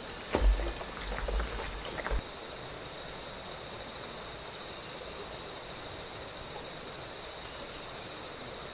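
Insects trilling steadily in several high, even tones, one of them pulsing on and off about once a second. A few knocks and low thumps come in the first two seconds.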